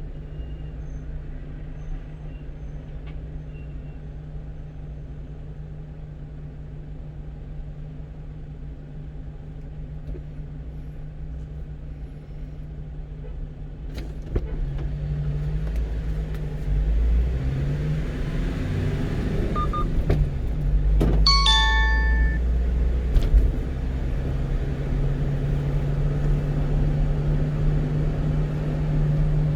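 1-ton truck's engine and road noise heard inside the cab while driving, with the engine note rising and shifting in pitch about halfway through as it accelerates. A short electronic chime sounds about two-thirds of the way in.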